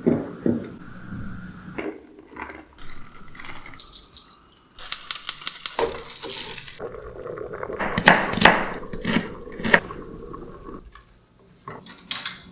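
Kitchen work sounds: water dripping and running, with dishes and utensils knocking and clinking, and a quick run of about eight sharp taps around five seconds in.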